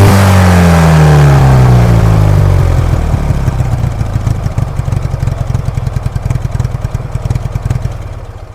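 IZh Jupiter-5 motorcycle's two-stroke twin-cylinder engine running, its revs falling off over the first three seconds. It then settles to an idle with distinct, uneven firing beats that grow quieter toward the end.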